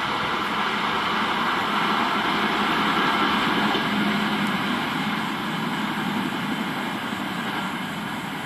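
Express train running away along the track: a steady rumble of wheels on rails that swells briefly, then slowly fades as it recedes.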